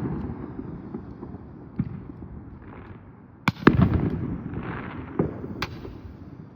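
Consumer fireworks going off: a string of sharp bangs, the loudest pair about three and a half seconds in, followed by crackling and hissing.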